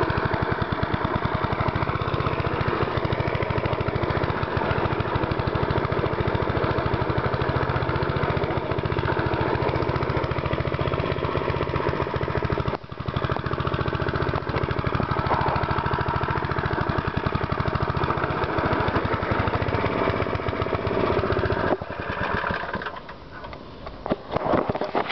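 Small single-cylinder engine of a pull-start walk-behind lawn mower running steadily under load, with a brief dip about halfway through. Near the end the engine sound falls away to a lower, uneven level.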